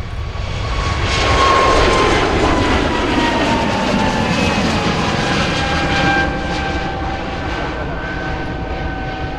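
Airliner passing close by on approach or departure: the engine roar swells about a second in, and a whine falls in pitch as the aircraft goes past, then eases off.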